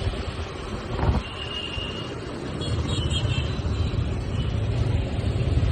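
TVS Apache motorcycle on the move in traffic: a steady rumble of its engine mixed with road noise, growing a little louder about halfway through.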